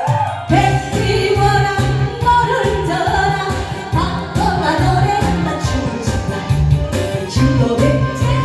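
A woman singing a Korean trot song over instrumental accompaniment with a steady, repeating bass beat.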